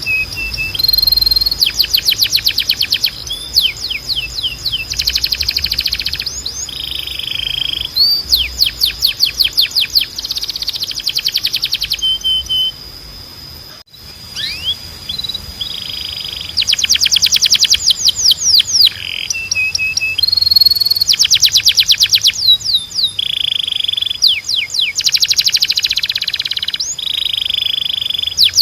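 Canary singing: phrases of rapid high trills alternate with short held whistled notes, with a brief pause about halfway through. A thin steady high tone runs beneath much of the song.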